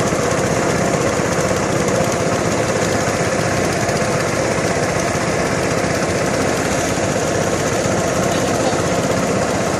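A small engine running steadily, holding the same speed throughout with no revving.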